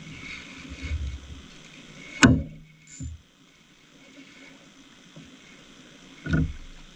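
Sharp knocks, the loudest about two seconds in and another near the end, over low rumbling handling noise.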